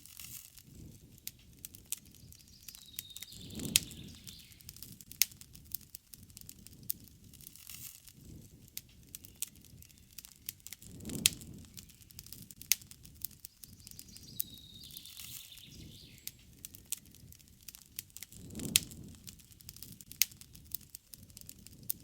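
Wood campfire crackling, with many sharp pops and snaps and a low flame rumble that swells every several seconds. Faint birds chirp twice in the background.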